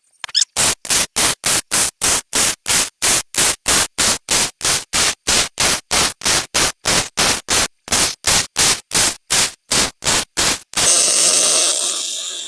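Arc welding a steel base plate and gussets: the arc crackles in short, very regular pulses, about four a second, as the weld is laid in stitches. Near the end it runs continuously for about two seconds, then stops.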